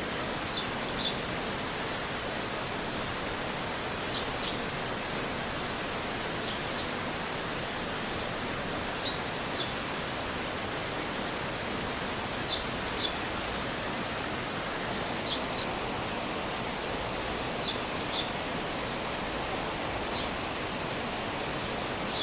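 Stream water rushing steadily, with a short high chirp of two or three quick notes from a small animal repeating about every two to three seconds, about eight times.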